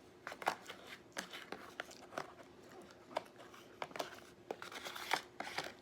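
Close-miked eating: chewing with irregular wet clicks and crackles from the mouth.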